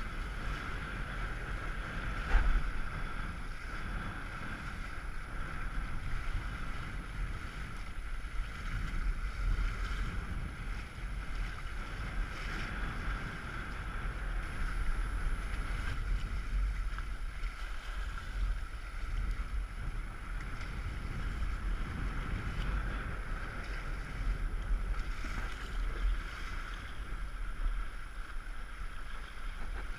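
Wind buffeting the microphone and water rushing along the hulls of a small sailboat under sail, steady throughout, with one sharp knock about two seconds in.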